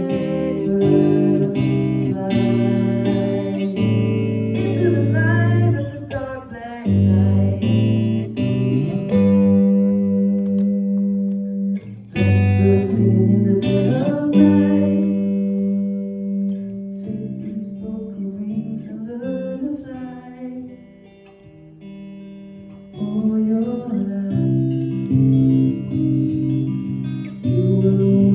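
Guitar playing plucked chords in a small room, with a singing voice coming in now and then; the playing drops to a quieter patch a little past two-thirds of the way through, then picks up again.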